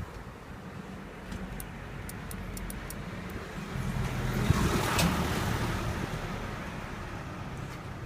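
Suzuki GSX1300R Hayabusa's inline-four engine idling steadily through a Wyvern aftermarket muffler, with a broad swell in loudness about four to five seconds in.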